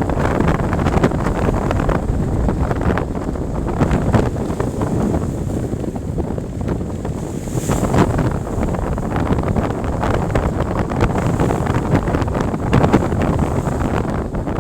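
Wind buffeting the microphone aboard a sailboat under sail, in gusts, with the wash of sea waves beneath it.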